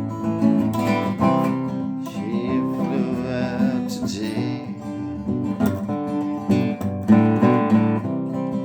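Instrumental break in a song: strummed acoustic guitar carries on with chord changes between the sung lines.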